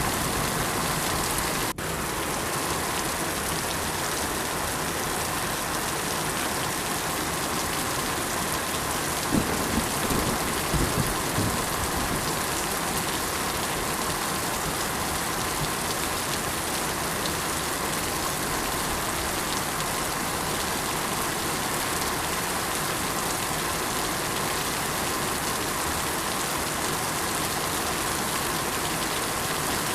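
Steady rainfall: an even hiss of drops hitting surfaces, with a few brief low thuds about a third of the way in.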